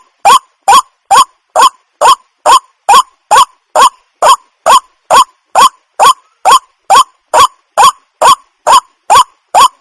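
Water hen (jal murgi) calling: a short, rising call note repeated at an even pace, a little over two calls a second.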